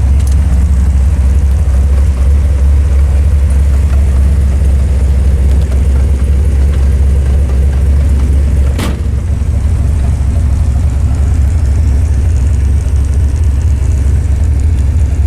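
The Interceptor replica's supercharged engine running at a steady low rumble, with no revving. A single sharp click a little past halfway.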